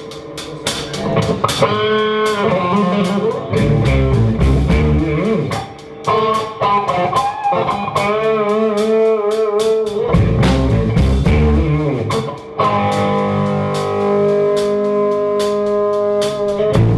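Live blues band playing an instrumental passage: a lead guitar plays bent, wavering notes over a drum kit keeping time. About four seconds from the end the guitar moves to longer held notes.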